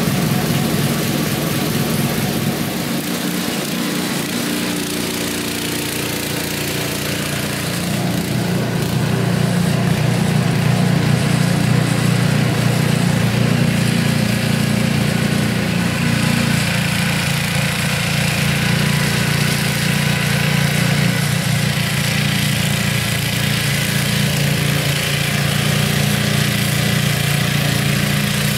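Toro 826 snowblower's 8 hp Briggs & Stratton engine running steadily, getting a little louder about eight seconds in.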